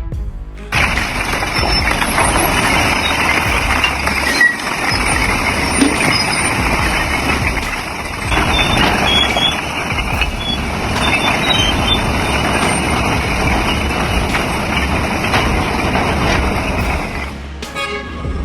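Heavy truck running: steady engine and road noise that starts abruptly just under a second in and cuts off near the end.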